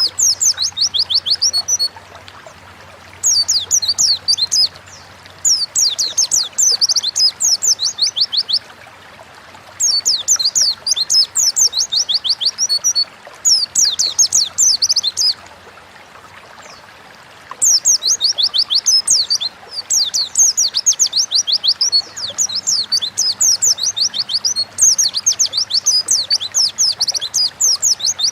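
Pleci (white-eye) singing: rapid runs of fast, high, falling notes in phrases a few seconds long, with short pauses between them.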